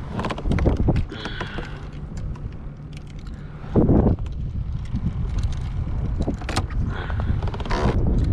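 Small clicks, light rattles and scrapes of fishing tackle being handled while a lure is changed, with a loud thump about four seconds in, over a steady rumble of wind on the microphone.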